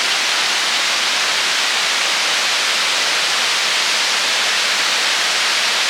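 Rushing water of a jungle waterfall, a steady even hiss with little low rumble.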